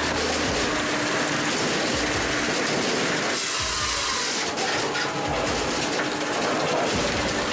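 Firewood processor running, with a steady mechanical clatter and rattle. About three and a half seconds in there is a burst of hiss lasting about a second.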